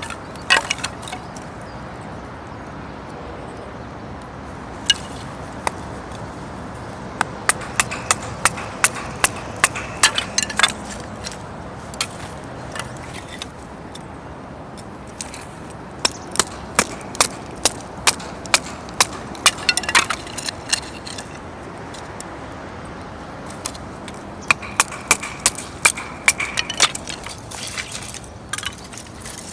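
Runs of sharp knocks and clicks, at times about two a second, over a steady rushing background.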